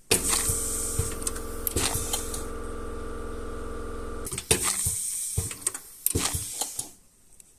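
A small motor-driven machine runs with a steady hum, a high hiss and scattered clicks. It starts suddenly, stops about four seconds in, and runs again for about two and a half seconds.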